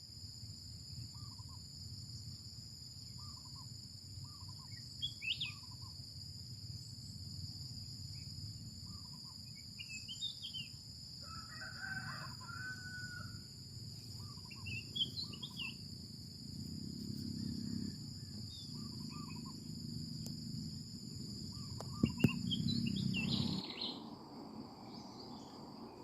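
Outdoor nature ambience: a steady high-pitched insect drone with small birds chirping again and again, and a rooster crowing once about midway. Near the end come a couple of sharp knocks.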